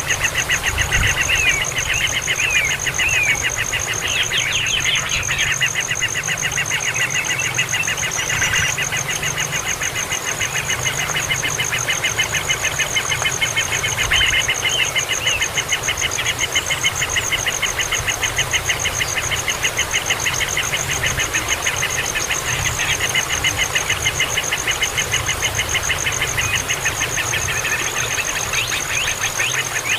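Baby birds chirping nonstop: a dense chorus of rapid, fast-repeating high calls with a few short sliding chirps on top.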